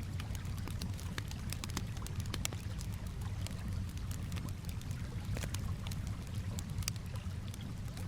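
Campfire crackling with frequent irregular sharp pops, over a steady low wash of calm water.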